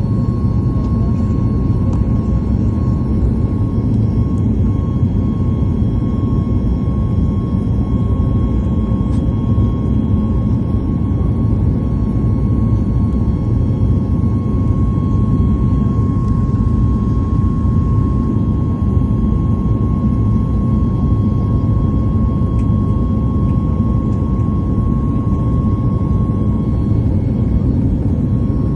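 Steady drone of an airliner's jet engines and airflow heard from inside the passenger cabin, a deep even rumble with a thin steady whine above it.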